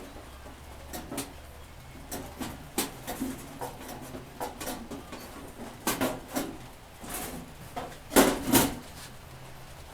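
Irregular clicks and knocks from handling a Coleman camp stove, with the loudest pair of knocks about eight seconds in.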